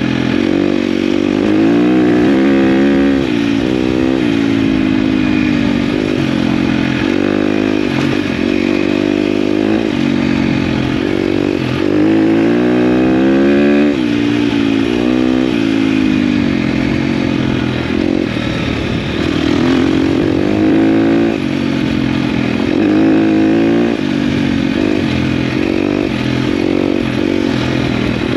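Dirt bike engine being ridden off-road: revs climb and drop back again and again as the rider accelerates, shifts and rolls off the throttle.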